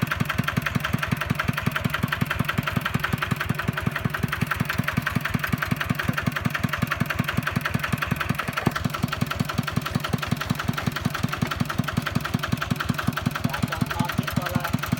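Kubota two-wheel walking tractor's single-cylinder diesel engine running steadily, with an even, rapid beat of firing strokes.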